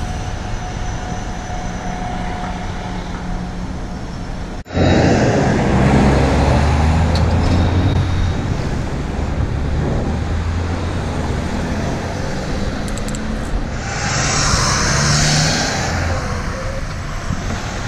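City street traffic with heavy truck engines running; about five seconds in the sound cuts abruptly to a louder, deeper engine rumble, and near the end a hiss rises for about two seconds.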